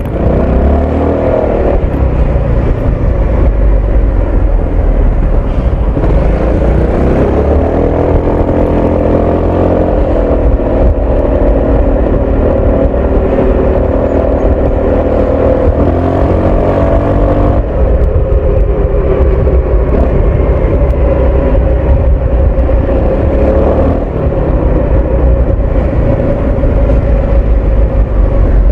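Honda ADV 350 scooter's single-cylinder engine and exhaust under way, the note climbing as it accelerates a few seconds in, then holding at a steady cruise. The pitch eases off and picks up again a couple of times later on.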